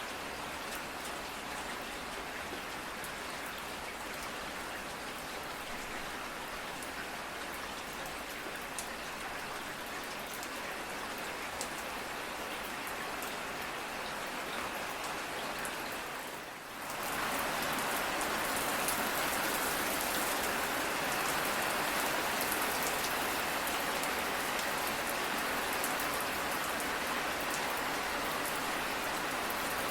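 Steady rain falling, with scattered individual drops. About two-thirds of the way through it briefly dips, then comes back louder and brighter.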